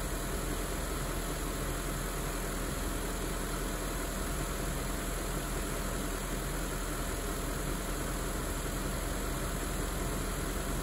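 BMW E38 740i's 4.4-litre V8 idling steadily while warming up after a cold start.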